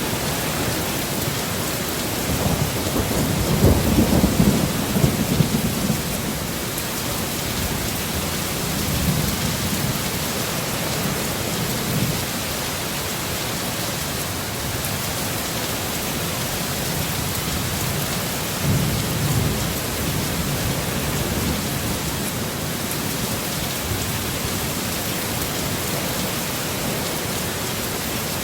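Heavy rain pouring down steadily, with low rolls of thunder rumbling up several times, the strongest a few seconds in.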